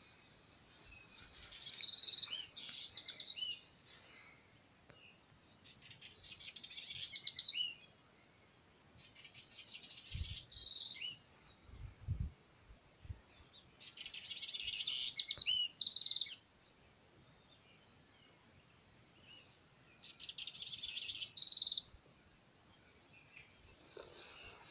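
A songbird singing a rapid, trilling phrase about two seconds long, repeated five times with short pauses between.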